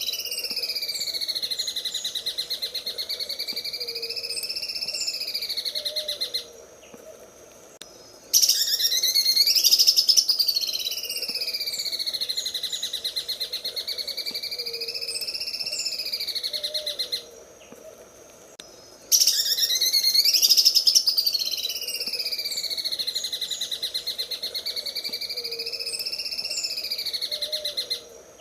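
Greater green leafbird (cucak ijo) singing its 'sewing machine' song: a long, very rapid rattling trill that swoops up and down in pitch, each phrase lasting six to nine seconds. The phrase comes around three times, with short pauses in between.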